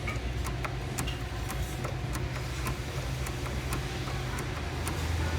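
Hand priming pump on a Toyota Hiace 1GD diesel's fuel filter being pumped to bleed fuel into the new filter, giving sharp clicks about twice a second. A steady low hum runs underneath.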